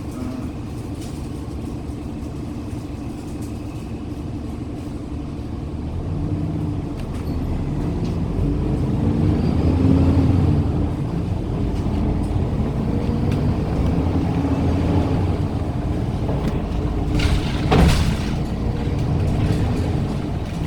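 Inside the cabin of a 2019 Daewoo NEW BS106 NGV city bus, its Doosan GL11P natural-gas engine runs and builds under acceleration, growing louder to a peak about halfway through, then runs steadily under way. A brief loud burst of noise stands out near the end.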